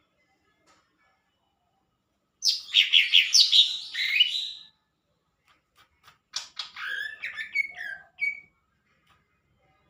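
A green leafbird (cucak ijo) singing in two phrases: a loud rush of fast, sweeping high notes about two and a half seconds in, then after a short pause a second run of gliding, whistled notes.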